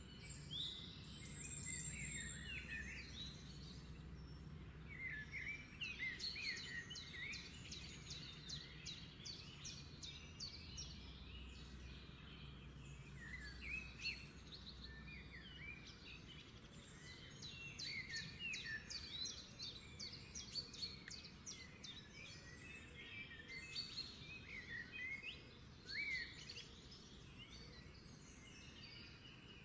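Birds chirping and twittering in short repeated calls, over a low hum.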